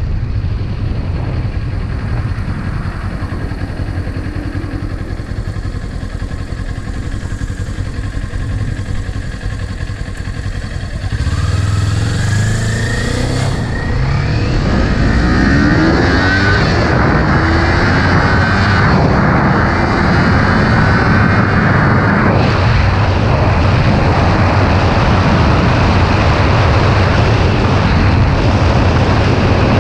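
Kawasaki Ninja 400's parallel-twin engine running as the motorcycle rides along. About eleven seconds in it gets louder and the engine note rises as the bike accelerates, then it holds at a louder, steady cruise.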